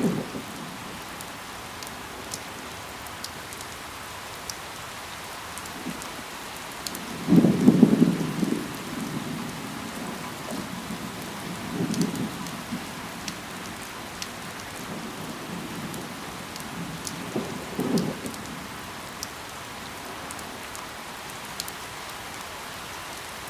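Steady rain falling on leaves, with scattered sharp drop ticks. Three short, deep rumbling swells rise out of it about 8, 12 and 18 seconds in; the first is the loudest.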